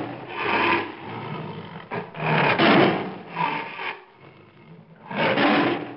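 Tiger growling: a series of rough, raspy growls, about five, each lasting under a second with short pauses between.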